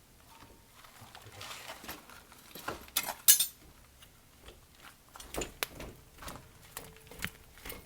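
Metal tools and coilover parts clinking and clattering as they are handled, a string of sharp clicks with the loudest cluster about three seconds in.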